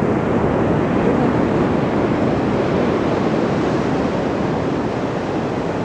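Ocean surf breaking and washing up the shore as a steady, dense rush, swelling slightly early on and easing a little toward the end.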